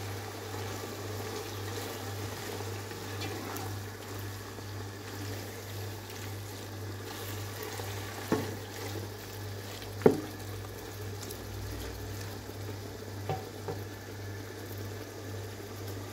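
Chicken keema and peas sizzling gently in a pan while a wooden spoon stirs them, with three knocks of the spoon against the pan, the loudest about ten seconds in.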